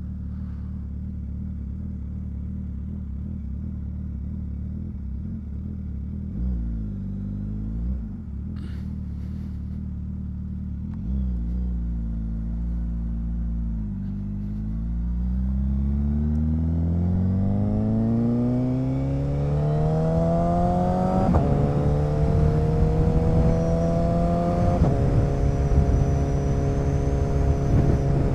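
Motorcycle engine at low revs, then pulling away and accelerating through the gears: the pitch climbs steadily, drops back at an upshift about two-thirds of the way in and again a few seconds later, then holds steady at cruising speed with rising wind rush.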